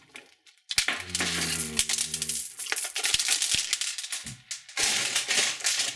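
Candy wrappers crinkling and crackling as they are handled, with a short low tone sliding slightly downward about a second in.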